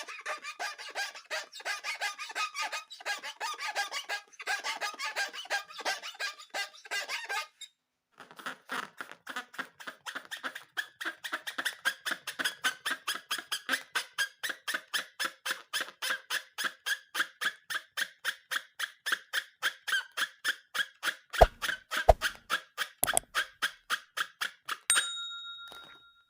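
Rubber balloons squeaking as they are rubbed and squeezed: a quick, uneven run of squeaks, then after a short pause a steady series of about three squeaks a second, with a few dull thumps near the end.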